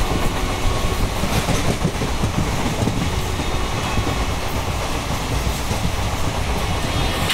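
ICF passenger coach running on the track, heard from inside the moving train: a steady rumble of wheels on rails.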